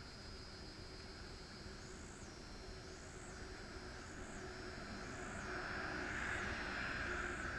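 Insects chirping in a regular rhythm, about one high pulse a second, over a steady high drone. A passing road vehicle swells up to its loudest near the end and begins to fade.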